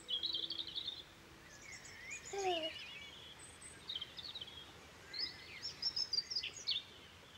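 Songbirds chirping and trilling in short, scattered phrases, with one brief lower falling note about two and a half seconds in.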